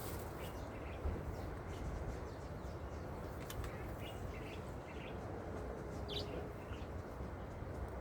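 Steady outdoor background noise with birds chirping briefly now and then.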